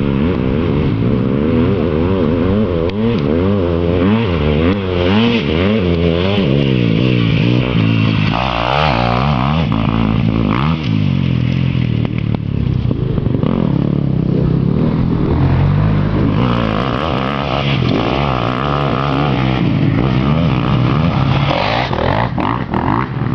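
Four-stroke motocross bike engine running hard, its pitch climbing and dropping over and over as it is accelerated, shifted and eased off around the track.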